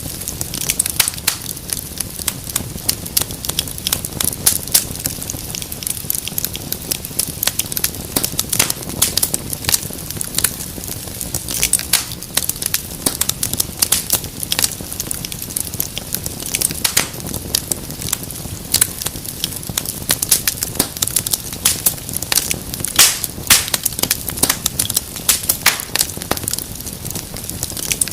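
Wood fire crackling, with many irregular sharp pops and snaps over a steady low rush of flame.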